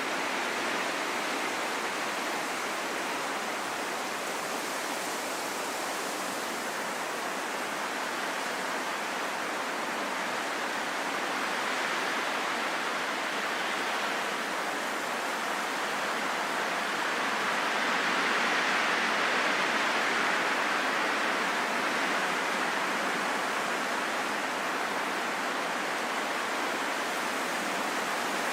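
Steady, even rushing of wind with no whistle or howl, swelling slightly about two-thirds of the way through and then easing back.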